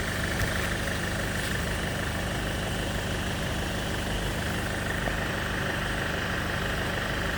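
2006 Opel Zafira engine idling steadily.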